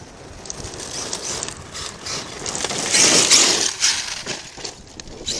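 ARRMA Kraton 8S electric RC truck driving over rough, rocky dirt: tyres crunching and scrabbling over stones with mechanical clicking and rattling, growing louder and peaking about three seconds in.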